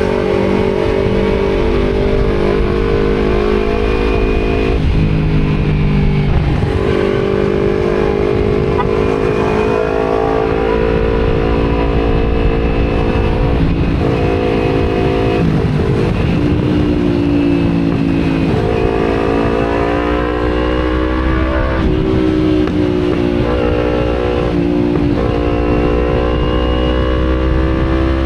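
Kawasaki Z250's parallel-twin engine through an Akrapovic aftermarket exhaust, on the move, its pitch dropping and climbing again several times with gear changes and throttle, over wind rush.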